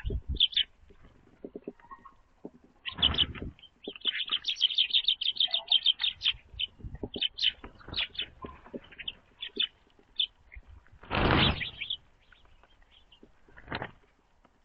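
Small songbirds chirping with many short, high calls, including a quick run of repeated notes. Two flurries of wingbeats cut in, a short one about three seconds in and a longer one near eleven seconds.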